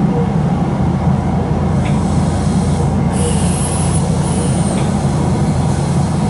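Inside a Nankai 2300 series electric train as it brakes to a stop at a station: a steady low rumble, with a burst of compressed-air hiss about three seconds in as the train comes to rest.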